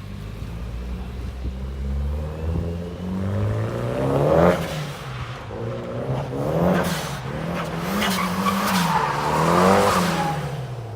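Car engine revving up and down repeatedly as the car drifts, with tyres squealing in long screeches through the second half.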